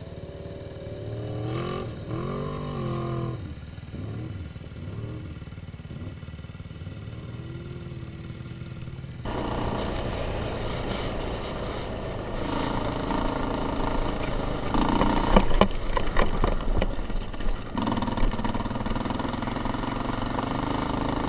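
Single-cylinder four-stroke off-road engines revving up and down as the riders ride. About nine seconds in the sound jumps abruptly to a louder, closer engine running steadily, with some rattling and clatter.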